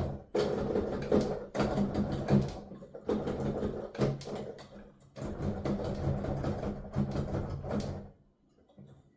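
Keys of a digital piano played with headphones on, so what is heard is the keyboard action's mechanical clatter and thumps rather than notes. It comes in phrases broken by short pauses and stops about eight seconds in.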